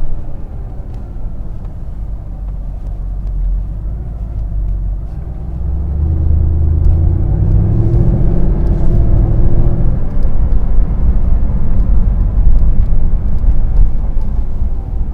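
Mercedes-AMG SLS 63's 6.2-litre V8 running under way with a deep rumble; about six seconds in it grows louder and its pitch climbs as the car accelerates, then stays loud.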